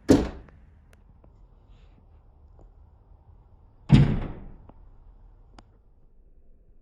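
Two loud, sharp knocks about four seconds apart, each dying away within half a second, with a few faint ticks between them.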